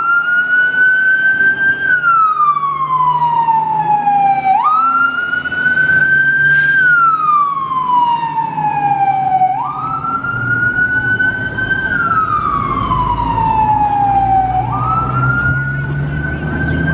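Fire engine siren on a slow wail: the pitch jumps up, holds for about two seconds, then slides down. The cycle repeats about every five seconds, four times, over the low rumble of the truck.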